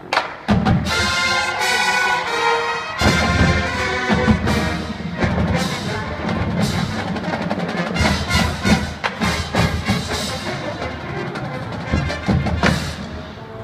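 School wind band playing loud brass chords over percussion, punctuated by sharp accented hits about half a second in, about three seconds in and near the end.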